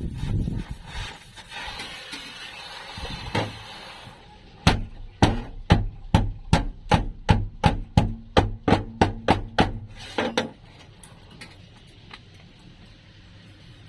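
Hammer striking sheet metal during a car floor-pan repair: a run of about sixteen sharp blows, roughly three a second, starting about four and a half seconds in and stopping about ten seconds in.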